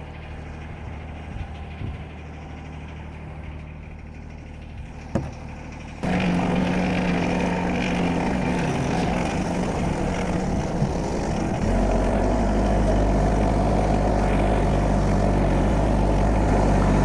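Tractor engine running steadily. It gets suddenly louder about six seconds in and deepens and rises again near twelve seconds, as the throttle is opened up.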